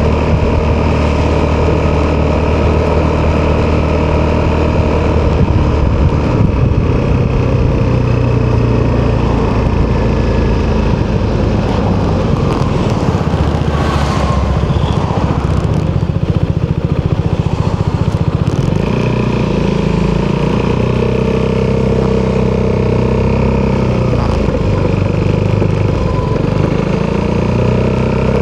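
Italjet Dragster 200 scooter's single-cylinder four-stroke engine running through an Akrapovic exhaust while riding. Its pitch rises and falls as the throttle changes, with a rev rising near the end.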